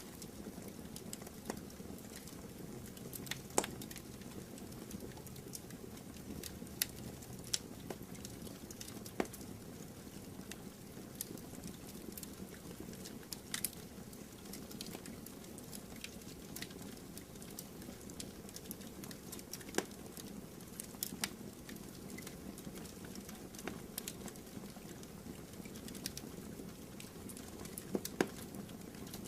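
Campfire burning, with a steady low rush of flames and frequent irregular crackles and sharp pops from the burning wood.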